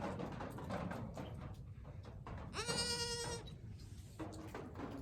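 A goat bleats once, a single level call lasting under a second, about halfway through.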